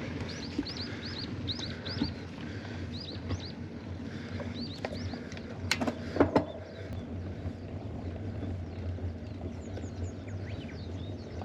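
A small bird gives quick, high, falling chirps over a steady low rumble, densest in the first few seconds. A couple of sharp clicks sound about six seconds in.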